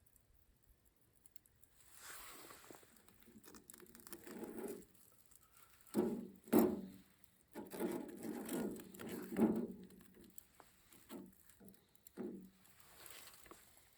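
Handling noises: irregular scraping and rustling with light knocks, busiest in the middle of the stretch.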